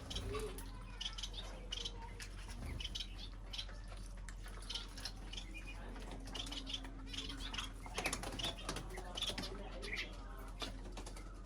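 Small cage birds chirping busily, many short high chirps overlapping, over a steady low hum. A sharp tap about eight seconds in.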